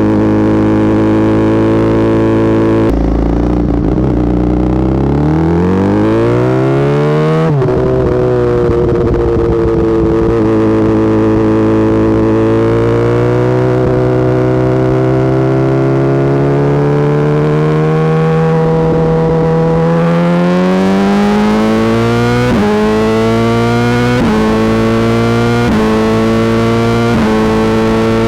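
Motorcycle engine heard while riding, its pitch climbing under acceleration and dropping at two gear changes a few seconds apart. It then runs nearly steady for a long stretch, and near the end jumps up in a series of short, quick rises.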